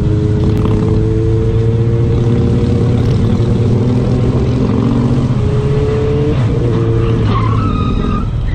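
Motorcycle engine running steadily at road speed with wind rush, heard from an onboard camera. A brief high squeal comes near the end.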